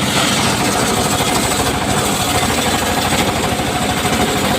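Circular saw blade cutting through timber, a bright rasping hiss over the fast, steady beat of the engine that drives the saw.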